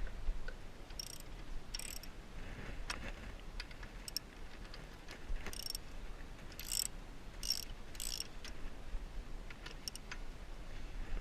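Hand tools working on bolts: a ratchet wrench clicking in about six short runs, with scattered metal clinks and taps between them.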